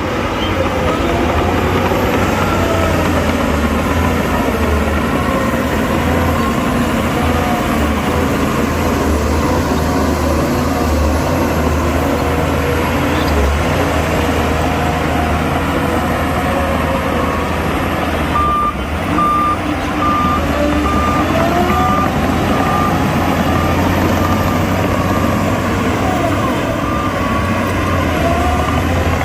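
Diesel engines of heavy earthmoving machinery running, their pitch rising and falling as they work. About two-thirds of the way in a reversing alarm starts, beeping at one steady pitch a little more than once a second.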